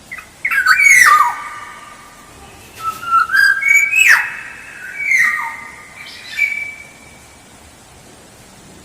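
Black-naped oriole (kepodang) singing: a run of loud, fluty whistled phrases with notes that slide downward, about five phrases in the first seven seconds before it falls quiet.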